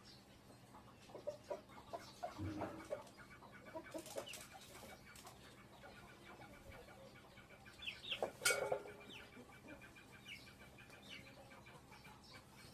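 Chickens clucking, mixed with scattered light clicks and knocks. The loudest sound is a sharper call about eight and a half seconds in.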